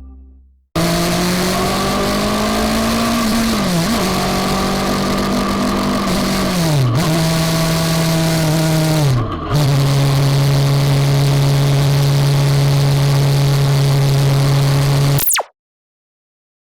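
Honda CB400SB inline-four engine running under way at steady revs, with a haze of wind and road noise. The revs dip and recover three times at gear changes, then hold steady at a lower pitch; the sound cuts off suddenly near the end.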